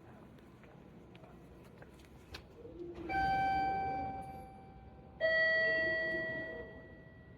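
Two-note station chime, a higher ding about three seconds in and a lower dong about two seconds later, each ringing out and fading, with faint platform background between.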